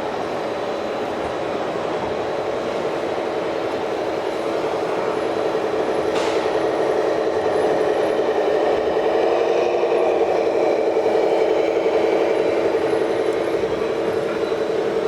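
Radio-controlled model truck running with a steady motor-and-gearbox hum, growing a little louder past the middle, with a brief faint hiss about six seconds in.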